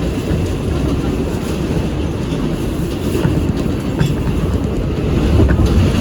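R188 subway train running: a steady low rumble with a few faint wheel clicks.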